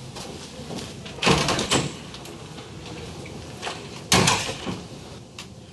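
A door being handled, with two bursts of clatter, one about a second in and a louder one about four seconds in.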